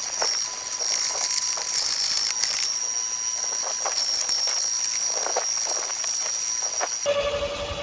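An electric power tool working wood, running with a steady high whine and hiss through irregular short cracks and snaps. Near the end it switches abruptly to a lower steady hum.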